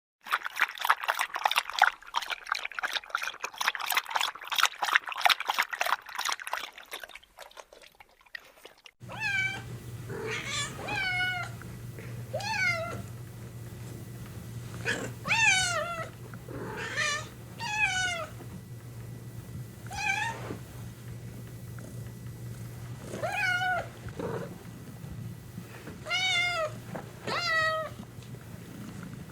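A dog panting rapidly for about nine seconds. The panting stops abruptly and is followed by a domestic cat meowing repeatedly, about a dozen separate meows, over a low steady hum.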